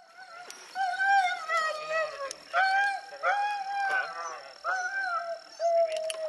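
Sled dogs howling and yelping in a string of overlapping cries that bend up and down in pitch.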